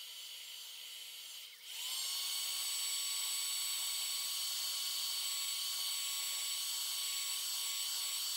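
Electric heat gun running, its fan motor giving a steady whirring hiss with a high whine. About a second and a half in it dips briefly, then spins back up in rising pitch and settles to a louder steady run.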